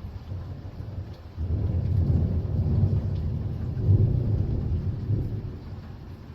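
Rolling thunder: a low rumble that swells suddenly about a second and a half in, peaks near the middle and dies away near the end.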